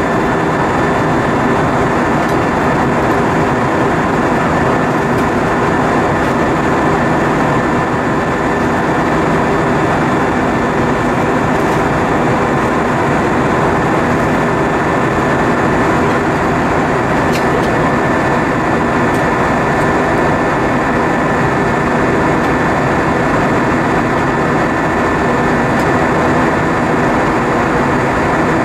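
Steady rushing cabin noise of an Airbus A320-232 airliner in flight: engine and airflow noise heard from a passenger seat, with a faint steady whine through it.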